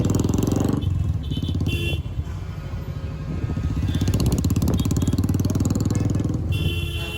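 Motorcycle engine running steadily while the bike is ridden on the road.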